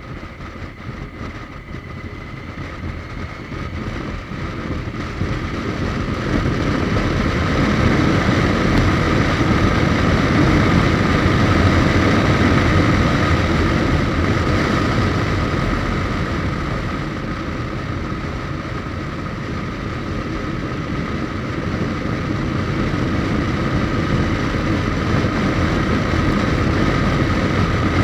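Riding on a Suzuki GSX1250FA motorcycle: wind rush over the engine's inline-four. It grows louder over the first several seconds, eases a little past halfway, then rises again.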